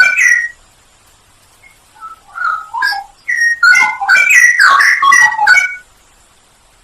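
Straw-headed bulbul (cucak rowo) singing loud phrases of gliding whistled notes: one phrase ends about half a second in, softer notes follow around two to three seconds in, and a longer loud phrase runs from just under four seconds to about six.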